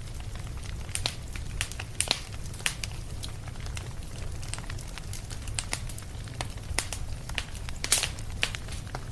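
Wood fire crackling in a fireplace: irregular sharp pops and snaps over a steady low rumble, with the loudest snap near the end.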